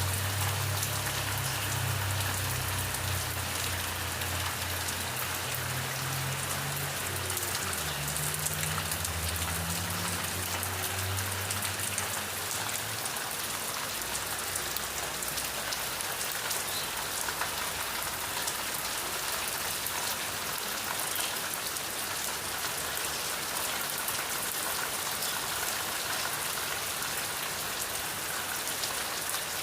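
Steady rain falling and pattering on a surface. For the first dozen seconds a low hum runs underneath, shifting pitch once or twice before fading out.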